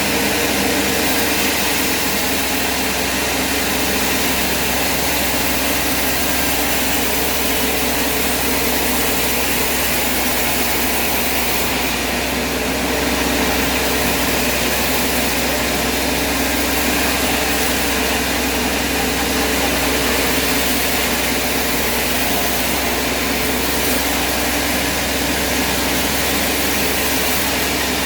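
An engine or engine-driven machine running steadily at constant speed: a dense, even mechanical noise with no breaks or changes.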